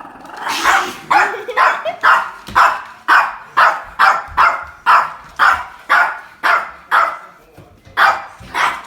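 Dog barking over and over at an even pace, about two barks a second, with a short break near the end before two more barks.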